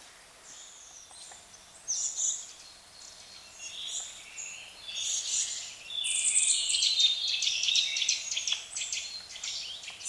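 Small songbirds chirping and singing. Scattered calls at first give way to a dense, fast twittering song that is loudest in the second half.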